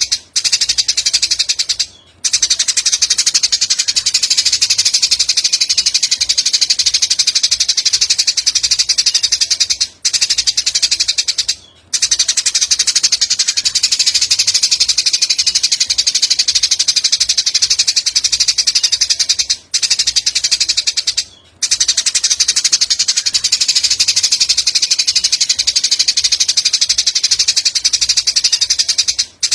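A recorded songbird call: a very fast, high-pitched trill that runs in long stretches of about eight seconds. Short gaps break it twice, so it sounds like a loop of songbird tutoring audio.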